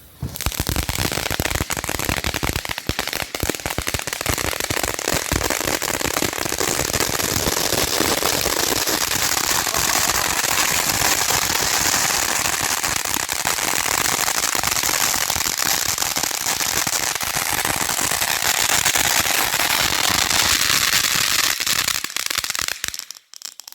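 A firework from a consumer assortment pack going off in a long, dense run of rapid crackling bangs. It starts suddenly and runs for over twenty seconds before stopping abruptly near the end.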